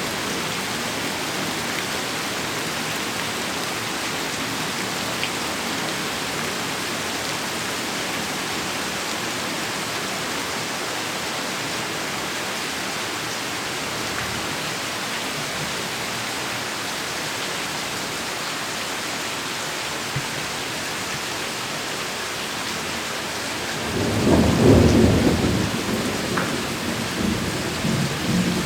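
Heavy rain falling steadily, then a loud rolling peal of thunder rumbles in near the end and keeps rumbling in waves.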